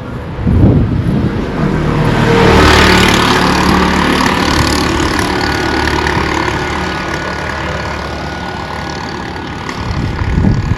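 A motor vehicle passing close by on the road. Engine and tyre noise builds to a peak about two and a half seconds in, then slowly fades away.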